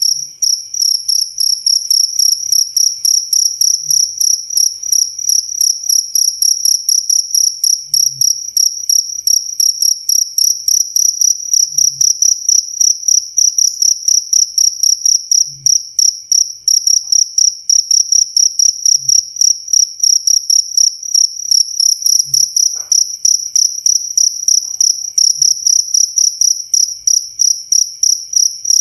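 A cricket chirping close and loud: a high, piercing tone in rapid, evenly spaced pulses that go on without a pause.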